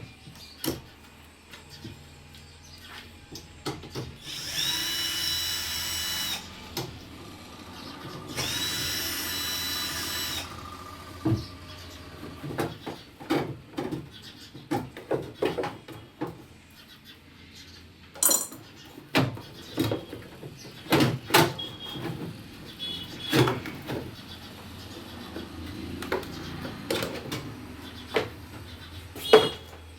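Power drill run twice in bursts of about two seconds each, driving screws out while a front-load washing machine is taken apart, followed by a string of sharp clicks and knocks from panels and parts being handled.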